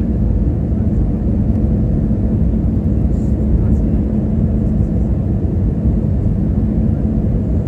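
Jet airliner cabin noise: a steady, loud low drone of the engines and airflow, with a constant hum underneath.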